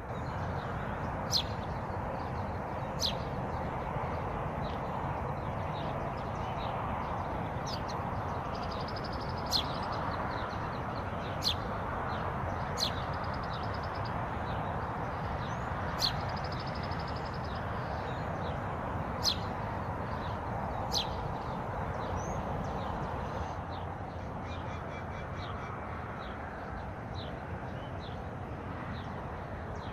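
Wild birds calling over a steady rush of water: sharp single calls every few seconds, with a few brief high trills between them.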